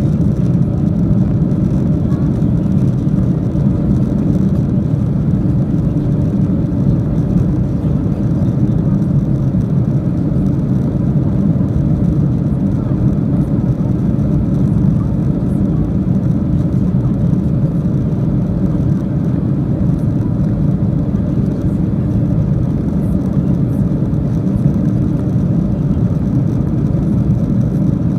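Steady cabin noise inside a Boeing 737-800 on its descent: a constant low rush of the engines and the airflow over the fuselage.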